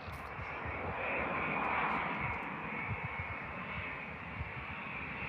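Jet engines of an All Nippon Airways Boeing 787 Dreamliner coming in to land: a steady jet whine that swells slightly a second or two in.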